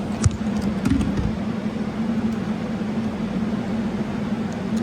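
Motorbike engine running at a steady speed with road and wind noise, a steady low hum throughout; a click and a low thump about a second in.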